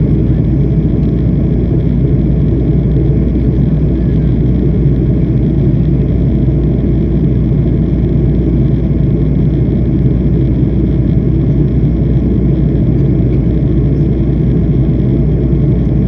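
Jet airliner's engines and rushing air: a loud, steady, low drone that holds level throughout.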